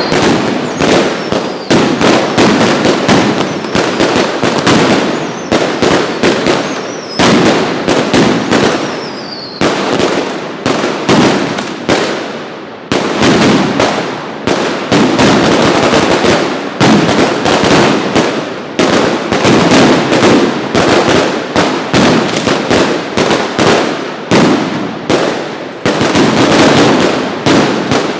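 Mascletà firecrackers going off in dense volleys of loud, sharp bangs, many a second, the barrage repeatedly jumping up and fading back. A few falling whistles sound in the first third.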